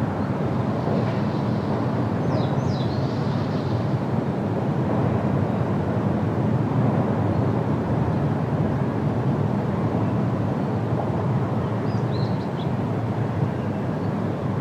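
Steady wind rushing through trees, heaviest in the low end. Brief high bird chirps come about two and a half seconds in and again near the end.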